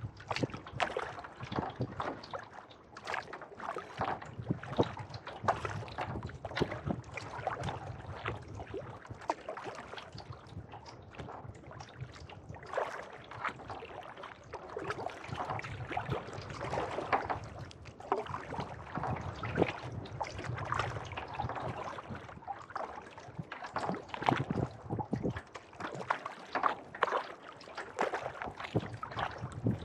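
Kayak paddle strokes on a lake: the blades dip and pull through the water in a steady rhythm, with splashing and dripping water between strokes.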